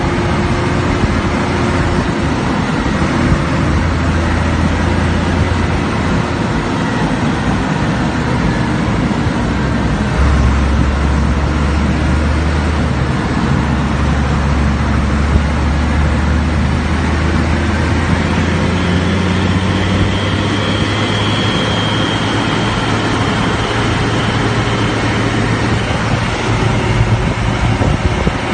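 Fendt Favorit 824 tractor's six-cylinder turbodiesel running steadily, its low note shifting about ten seconds in.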